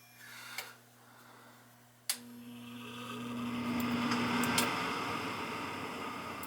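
A relay clicks on in a gas furnace, then the draft inducer motor hums and spins up, its rushing whoosh rising for about two seconds and then running steadily, over a low steady hum.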